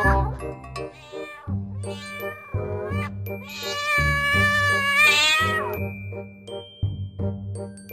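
A kitten meowing over background music: short meows in the first couple of seconds, then one long wavering meow in the middle.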